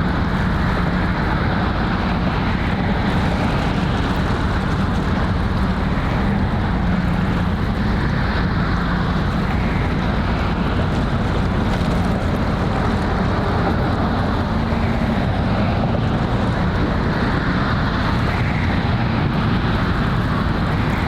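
Steady low drone of a ship's engine under a constant wash of water, with wind buffeting the microphone.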